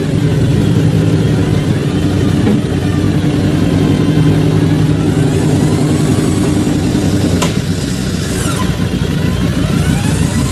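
Off-road 4x4 engine running steadily under load. A sharp click comes about seven and a half seconds in, followed by whines that rise and fall in pitch.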